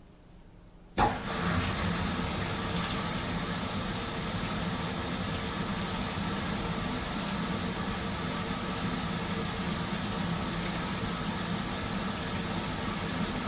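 Washing machine, nearly quiet for about a second, then starting up with a sudden click and running steadily with a low hum under an even wash of noise.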